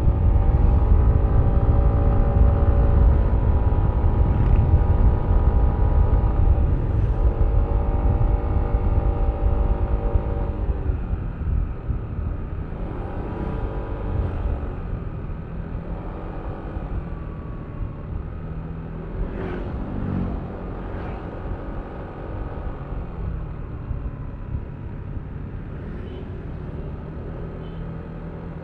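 Yamaha Aerox V3 scooter's single-cylinder engine under throttle, its pitch rising and falling through the first ten seconds or so. After that it runs quieter and steadier as the throttle eases, with a short falling whine around twenty seconds in.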